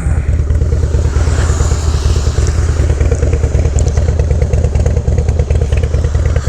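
Harley-Davidson Low Rider S V-twin engine idling steadily through an aftermarket exhaust, with an even pulsing beat.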